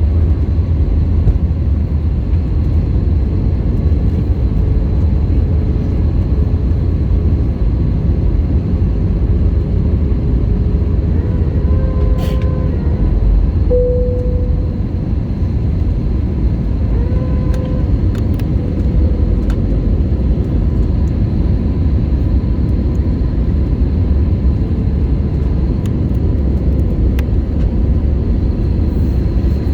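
Airliner cabin noise in flight: a steady, loud low rumble of engines and airflow heard from inside the passenger cabin, with a couple of faint brief tones near the middle.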